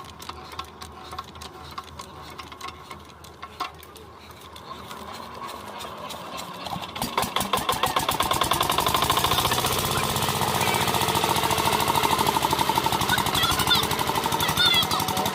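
Single-cylinder water pump engine (8 hp Kirloskar type) ticking over slowly and unevenly at first, then picking up about halfway through into a loud, fast, steady pounding beat as it comes up to running speed.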